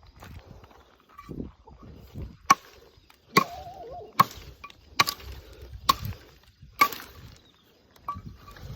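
A blade chopping into the wood of a fallen leucaena tree: a steady run of six sharp strikes, a little under a second apart, starting a couple of seconds in.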